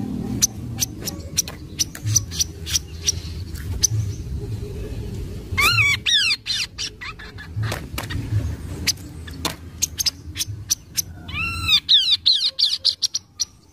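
Recorded song of the kaso-kaso bird, used as a lure call: a run of sharp ticking notes about two a second, broken about six seconds in and again near the end by quick clusters of arching whistled notes. A low rumble sits underneath.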